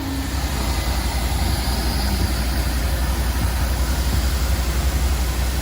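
Heavy vehicle engine running steadily: a low drone with an even rush of road and wind noise over it.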